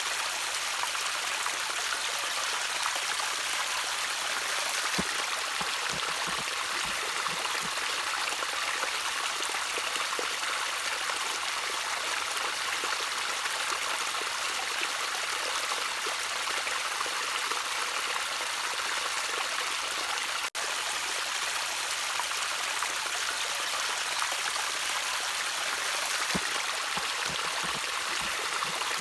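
Gently trickling stream water, a steady rushing hiss with most of its energy in the upper range and a few soft low splashes. A momentary dropout in the sound comes about two-thirds of the way through.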